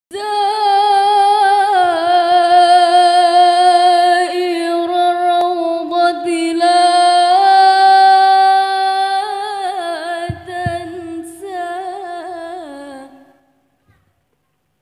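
A single voice singing an unaccompanied sholawat melody in long, held, ornamented notes with a wavering vibrato. It fades out a little past 13 seconds in.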